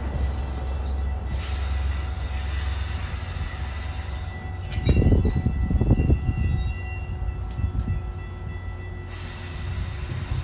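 Metra bilevel commuter train cars rolling slowly past: a steady low rumble with thin, high, steady squeal tones and a hiss that fades and returns. About five seconds in comes a louder burst of low, uneven rumbling.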